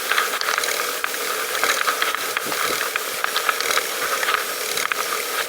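Bicycle freewheel ticking as the rider coasts: a fast, continuous run of clicks over a steady hiss.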